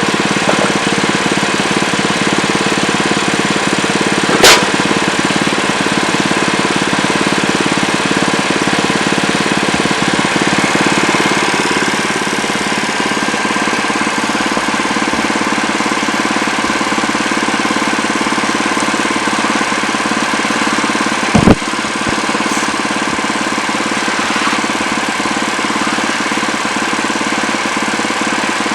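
Wood-Mizer LX25 portable sawmill's engine running steadily. Two sharp knocks cut through it, one about four seconds in and a louder one about 21 seconds in.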